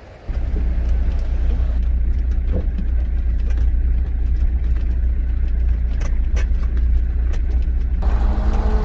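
Old GMC logging truck running with a deep, loud rumble that comes in abruptly, with scattered knocks and rattles. Near the end a pitched engine note rises in.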